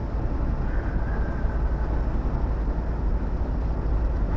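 Steady low drone of a long-haul truck driving, heard from inside the cab: engine and road noise, even in level throughout.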